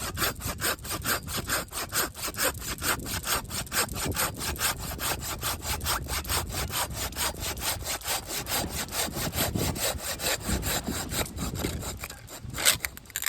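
Samurai hand saw cutting through wood in quick, even strokes. The strokes stop near the end, with a couple of sharper knocks.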